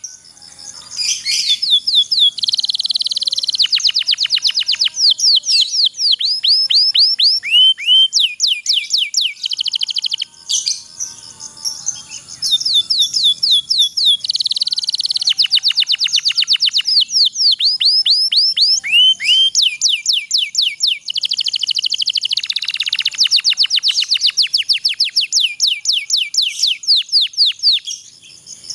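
Domestic canary singing a long song of rapidly repeated rising notes and fast rolling trills, with a short pause about ten seconds in.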